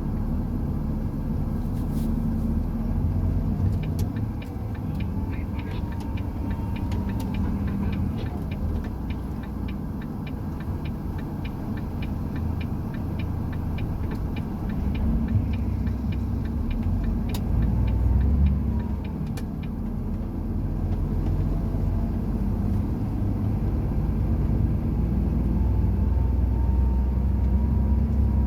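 Heavy truck driving, with a low steady rumble of engine and road and a fainter whine that climbs in pitch several times as the revs build. A run of rapid light ticks comes through in the first half.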